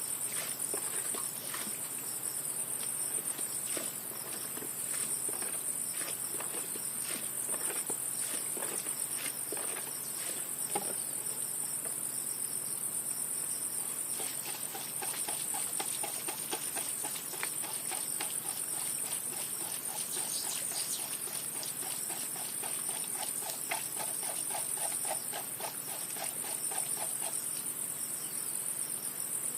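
A steady, high-pitched chorus of insects trilling, with scattered light clicks and taps. About halfway in, a lower, rapid pulsing call joins and runs until near the end.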